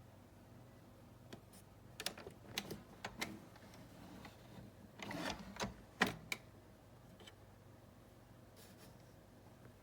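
A series of light clicks and knocks, scattered irregularly over about six seconds, with a brief rustle about five seconds in and the sharpest click just after it.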